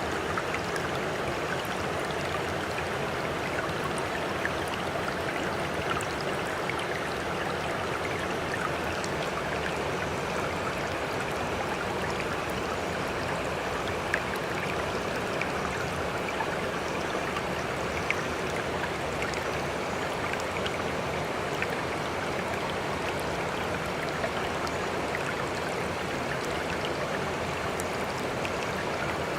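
Sea water washing and trickling steadily, with small scattered splashy ticks and no distinct wave swells.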